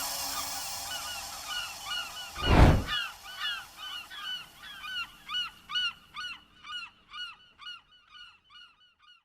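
A large bird giving a long series of honking calls, about two a second, that fade out toward the end. A brief loud whoosh comes about two and a half seconds in.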